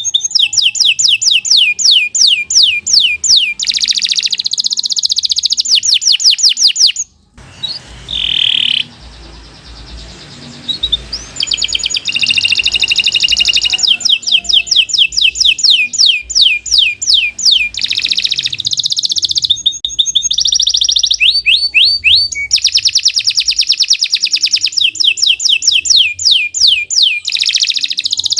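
Domestic canary singing a long, lively song: rapid trills of quickly repeated falling notes, with a pause of a few seconds about seven seconds in before the song starts up again.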